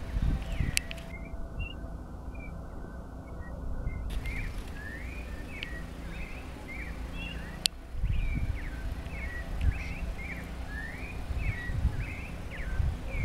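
A songbird repeating short, quick chirping notes over and over, over an uneven low rumble of wind on the microphone, with a sharp click near the start and another about eight seconds in.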